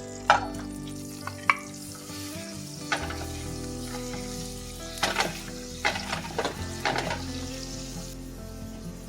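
Food sizzling as it fries in a pan, with a utensil knocking and scraping against the pan several times while stirring, the knocks clustered in the second half.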